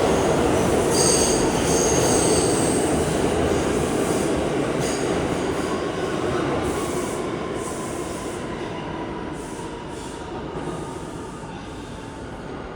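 NYC Subway R211A train running past and moving away, its rumble fading steadily. Steel wheels squeal with high, ringing tones for about two seconds near the start.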